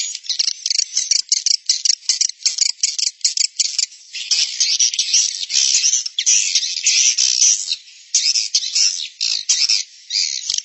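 Swiftlet lure recording of the 'roosting call' type: a dense, fast twittering of many swiftlet chirps and clicks, high-pitched and continuous, with brief dips about eight and ten seconds in. It is the call played in swiftlet houses to draw birds in to roost.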